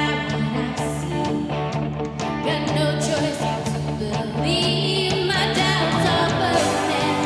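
Church worship band playing, with guitar and possibly a voice holding a line in the middle.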